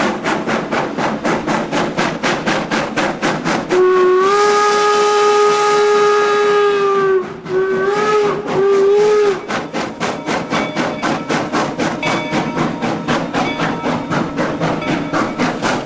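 2-8-0 steam locomotive working with a quick, even beat of exhaust chuffs, sounding its multi-tone chime whistle: one long blast about four seconds in, followed by a few short blasts.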